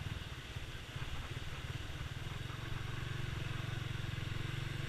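Motorcycle engine running at low revs, a steady low pulsing hum that evens out about halfway through, over a hiss.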